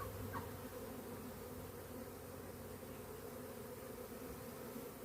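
Honeybee swarm buzzing steadily in a dense hum, the bees agitated after being disturbed while being moved into a hive box.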